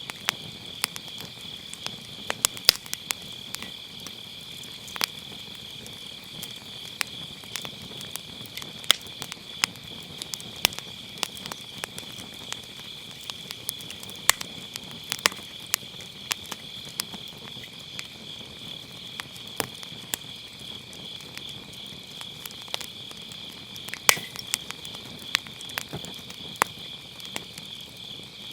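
Firewood burning in a round fire pit, crackling with irregular sharp pops, a few louder than the rest. Behind it runs a steady, high chirring chorus of autumn grass insects.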